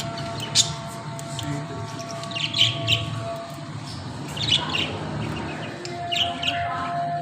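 Pet parrots chirping in short, high bursts that come every second or two, over soft background music.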